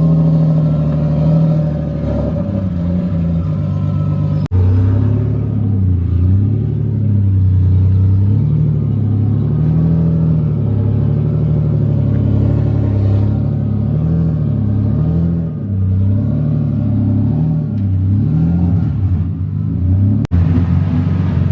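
Turbocharged Nissan 370Z's 3.7-litre V6 running at low revs on open turbo dump tubes with no exhaust, its note rising and falling about once a second in a lopey, cammed-sounding way. The sound breaks off sharply twice.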